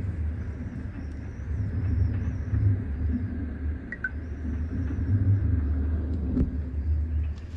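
Wind buffeting the microphone: a low, uneven rumble that swells and eases.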